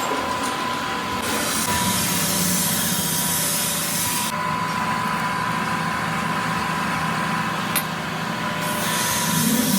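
Workshop machine running steadily during machining, with a constant whine over a low hum. The high hiss grows and drops abruptly a few times, and there is one sharp click near the end.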